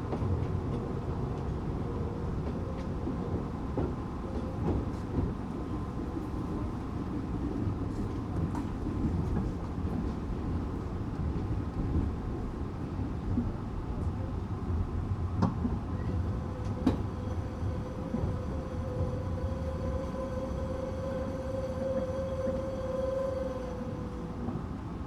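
Running sound of a Tokyu 8500 series electric train with Toyo-made traction motors: a steady rumble of wheels on rail with a few sharp rail-joint clicks. About two-thirds of the way through, a motor whine comes in, rises slightly in pitch and dies away near the end.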